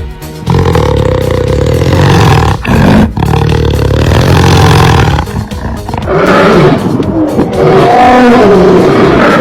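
Big cat roaring: a deep, rough roar for the first five seconds or so, broken briefly twice, then higher, wavering pitched calls from about six seconds in.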